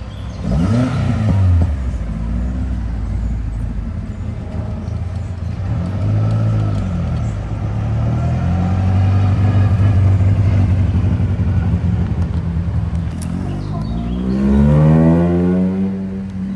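Car engines running as cars drive past, with a steady engine drone and revs that rise in pitch about a second in and again, loudest, near the end.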